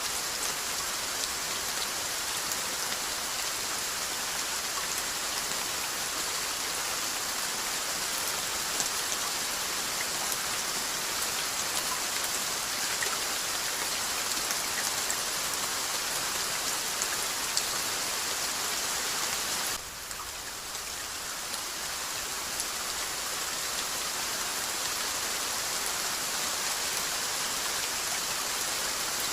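Steady rainfall, an even hiss with scattered ticks of single drops landing. The level dips suddenly about twenty seconds in, then builds back within a few seconds.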